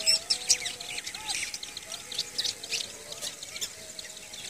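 Many small birds chirping busily, quick overlapping chirps, loudest in the first second, over a faint steady tone.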